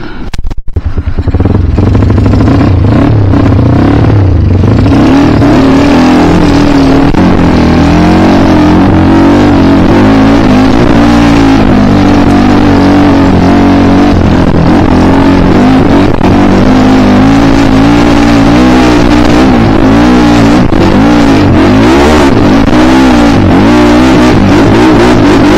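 Single-cylinder trail motorcycle engine pulling away and running hard, very loud and close. The pitch rises and falls continually with the throttle as the bike is ridden over rough ground.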